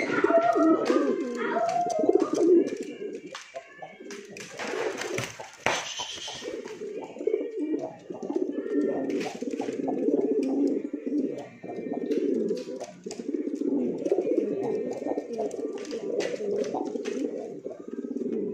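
Many domestic pigeons cooing together in a continuous overlapping chorus, with a brief burst of rustling about four to six seconds in.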